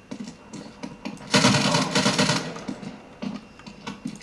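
Video game sound effects played through an Armaggeddon X-Bar 2 gaming soundbar: a dense burst of rapid clicks and bangs lasting about a second, starting about a second and a half in, a shorter burst just after 3 s, and scattered single clicks between.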